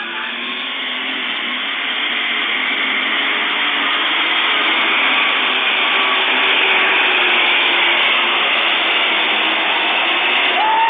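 Competition pulling tractor's engine running at full throttle during a pull, loud and steady, building over the first few seconds and then holding.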